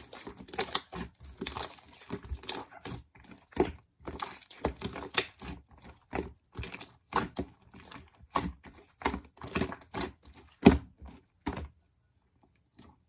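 Close handling noises: a rapid, irregular run of taps, clicks and crinkles from small objects being handled, which stops abruptly shortly before the end.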